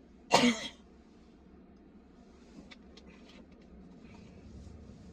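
A man's short, loud exhale, half a second in, in the middle of an angry rant, then a quiet small room with a few faint clicks.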